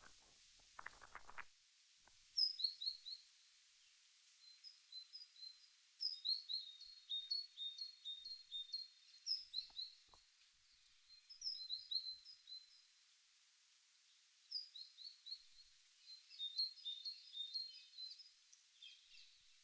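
Small songbird singing: phrases of quick, high chirping notes a couple of seconds long, coming every few seconds with short pauses between them.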